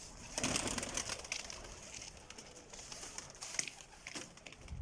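Domestic pigeons cooing, with a spell of rustling in the first second and scattered light clicks.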